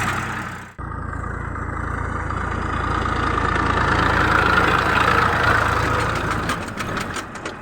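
Tractor engine running steadily, heard close up, with a brief break in the sound under a second in.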